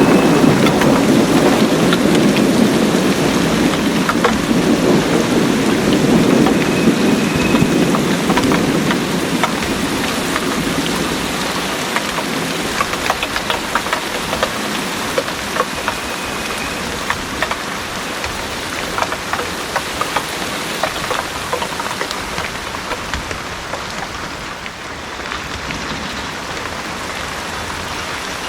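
Heavy rain pouring steadily, with a low rumble of thunder that fades away over the first ten seconds or so. Sharp drips tick through the rain.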